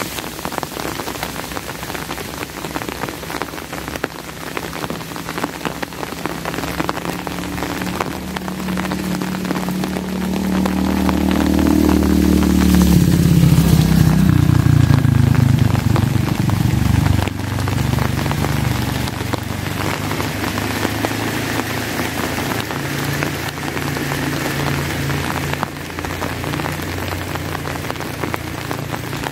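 Steady rain, with dense drops pattering on an umbrella overhead. A low rumble builds through the middle, is loudest for a few seconds, then drops off suddenly.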